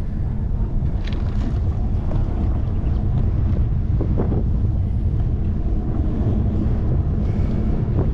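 Wind buffeting the microphone of a handlebar-mounted action camera on a moving bicycle: a steady low rumble, with a few faint ticks from the bike.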